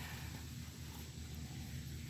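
Faint steady low hum under a light background hiss, with no distinct event.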